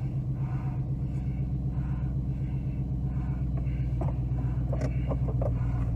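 Steady low rumble of a car's engine heard from inside the cabin, with a few light clicks about four to five and a half seconds in.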